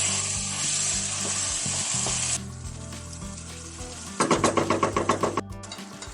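Food sizzling and frying in a pan while it is stirred. The sizzle drops off sharply a couple of seconds in. Near the end there is a quick run of rapid rattling clatter lasting about a second.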